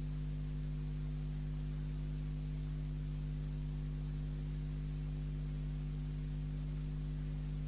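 Steady electrical hum made of several fixed low tones, with no change in pitch or level.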